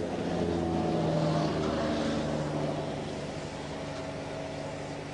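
A motor vehicle going by on the highway: its engine hum swells to a peak about a second in, dips slightly in pitch as it passes, and slowly fades.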